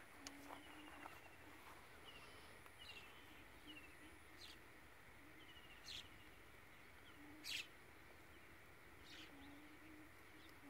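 Quiet outdoor ambience: a bird gives short runs of falling chirps several times over a faint low hum that comes and goes. Two brief crackles of dry vine stems being handled stand out about six and seven and a half seconds in.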